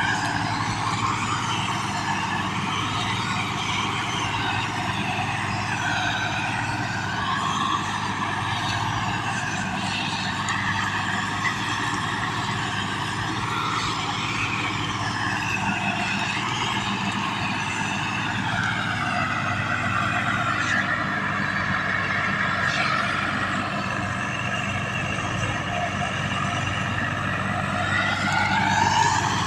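Tractor diesel engine running steadily, with higher tones above it that slowly rise and fall and climb sharply near the end.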